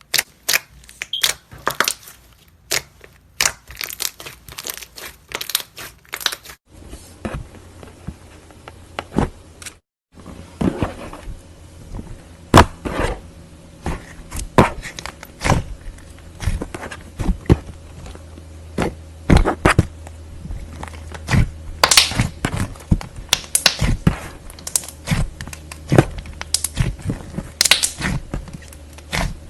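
Slime with clay mixed in being kneaded and squeezed by hand, giving a run of sharp sticky pops, clicks and crackles at an uneven pace. The sound drops out briefly near ten seconds, then the popping goes on over a faint low hum.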